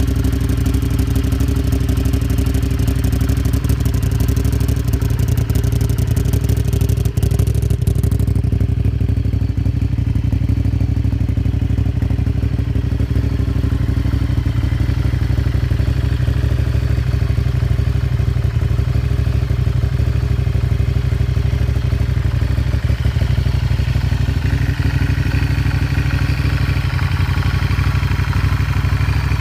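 Honda VTR's V-twin engine idling steadily, with no revving.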